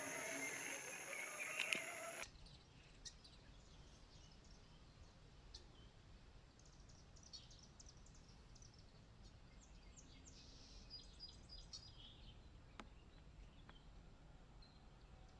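Small birds chirping and calling, fairly dense for the first two seconds, then an abrupt change to faint, scattered short chirps over a low steady rumble.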